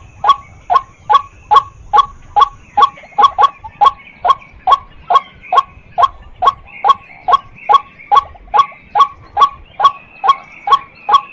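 White-breasted waterhen calling a monotonous, rapid string of short 'kwak' notes, about three a second, evenly spaced and loud, with fainter higher chattering behind.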